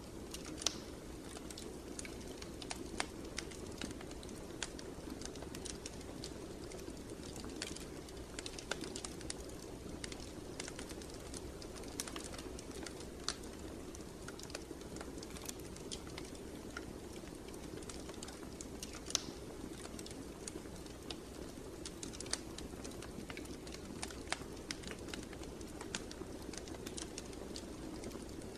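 Wood fire crackling in a fireplace: irregular sharp snaps and pops, a few of them louder, over a steady low rush of burning.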